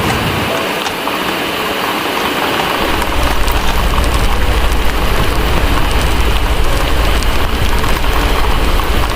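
Heavy rain hissing steadily, with small crackles from a wood fire scattered through it. About three seconds in, a deep low rumble comes in and holds steady.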